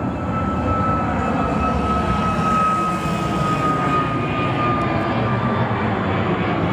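Jet airliner's engines heard close by, loud and steady, with a high whine that slowly falls a little in pitch.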